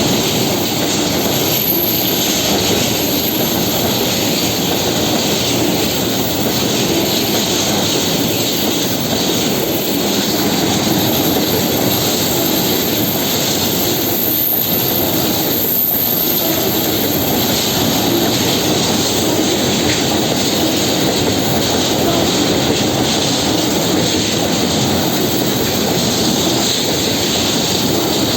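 Diesel locomotive engines running under a diesel-hauled works train: a loud, steady drone with no separate knocks or beats.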